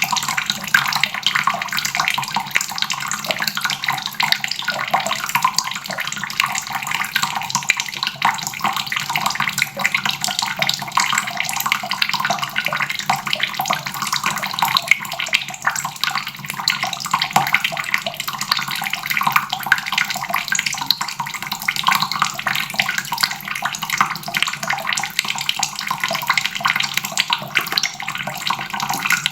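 Water faucet running steadily, a continuous stream splashing into a basin with no breaks.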